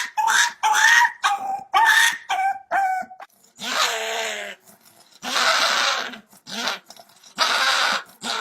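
A dog vocalising: a quick string of short, high-pitched yips, about three a second, then a longer call that falls in pitch, then several long, rough, raspy calls.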